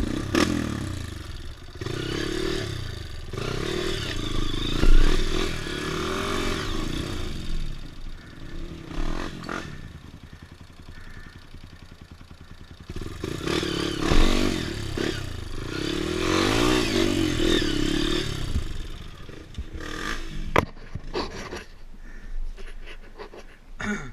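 Dirt bike engine revving up and down as it is ridden on a trail, in two long stretches with a quieter lull between them. The engine drops back near the end, and there is a sharp knock.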